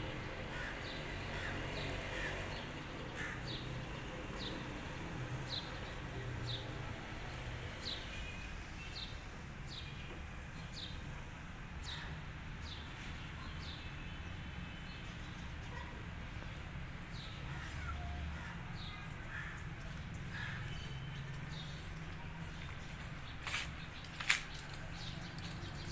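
Small birds chirping: short, high, falling chirps repeating about once a second, thinning out in the second half, over a low steady background rumble. Two sharp clicks near the end.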